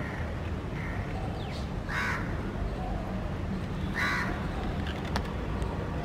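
Two short, harsh bird calls about two seconds apart, over a steady low background rumble.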